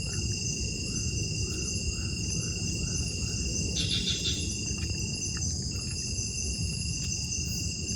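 Night insect chorus: crickets trilling steadily at several high pitches over a steady low rushing noise. In the first few seconds a run of about seven short rising chirps sounds, a little over two a second.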